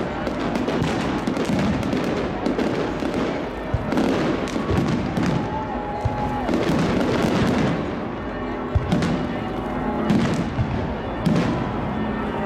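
Aerial fireworks display: a dense, continuous run of bangs and crackles from bursting shells.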